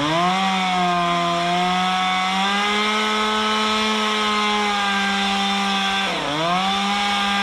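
Two-stroke chainsaw running at full throttle while cutting redwood, the saw smoking and on fire. The engine note climbs at the start, holds steady, and dips briefly about six seconds in before picking back up.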